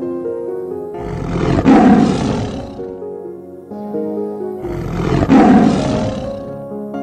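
Tiger roaring twice, each roar about two seconds long, over light background music.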